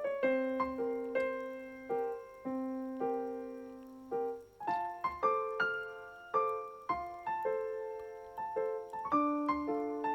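Background piano music: a gentle melody of struck notes, each fading away, at an easy steady pace.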